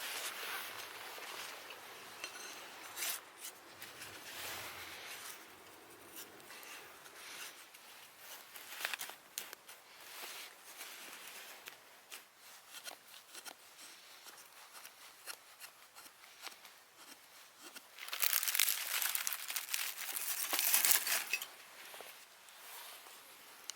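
Irregular crinkling and tearing handling noises with scattered sharp clicks, growing louder and denser for a few seconds near the end.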